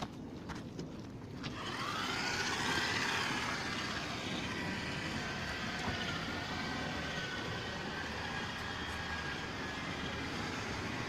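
A machine motor starts up about a second and a half in; its whine rises, then it runs steadily with a hiss.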